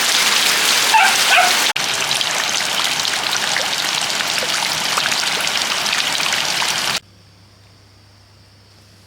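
Steady heavy rain, with a dog giving a couple of short yips about a second in. The rain cuts off abruptly near the end, leaving only a faint low hum.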